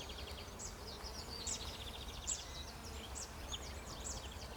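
Small songbirds singing faintly: repeated short high chirps and brief rapid trills, over a low steady rumble.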